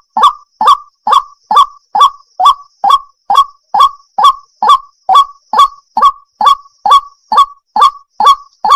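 Water hen calling: a short, harsh, downward call repeated over and over, about twice a second, at a perfectly even pace.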